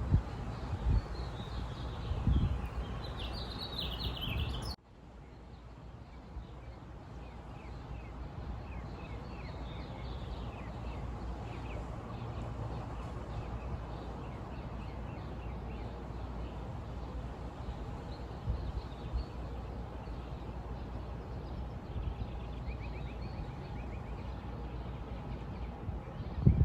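Birds chirping over a steady outdoor background with a low rumble. About five seconds in, the sound cuts off abruptly and a quieter ambience fades back in, with faint bird chirps going on through it.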